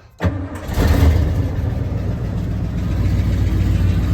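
A vehicle engine running steadily with a low hum, starting abruptly just after the beginning.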